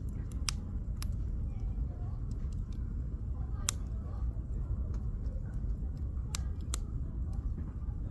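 Campfire firewood burning and crackling: scattered sharp pops, a few loud ones among fainter ticks, over a steady low rumble.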